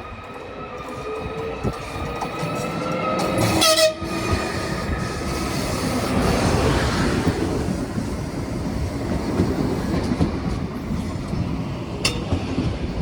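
ZSSK City Elefant double-deck electric multiple unit pulling away: its traction motors whine, rising in pitch as it accelerates. A short, loud horn blast comes about four seconds in, and then the wheels rumble and clatter past over the rails.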